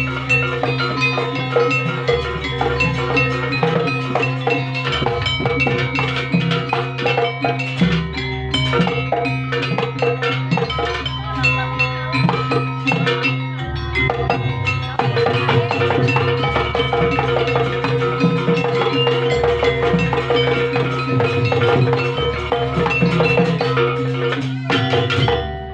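Live band music: drums and chiming struck percussion playing a busy rhythm over held tones.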